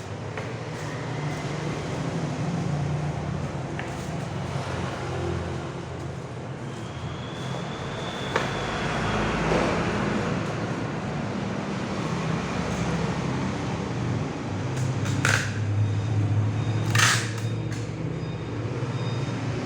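An engine running steadily with a low hum, with two short hisses near the end.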